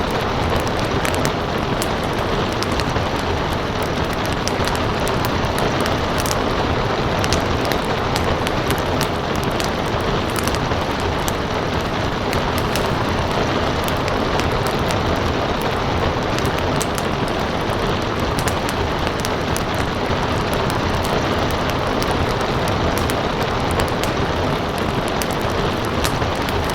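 Steady rain mixed with a crackling wood fire: a constant rushing hiss with many small sharp crackles and pops scattered through it.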